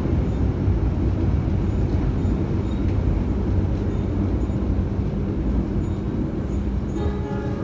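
Argo Dwipangga passenger train running along the track: a steady rumble of wheels on rails.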